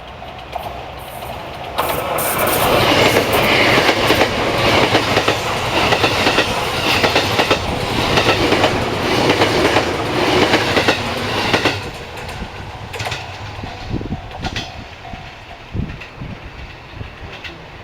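A train passing close by: a loud rush of wheels on rail with a rhythmic clickety-clack over the rail joints. It builds about two seconds in, drops off sharply near twelve seconds, and ends in a few separate, fading wheel clacks.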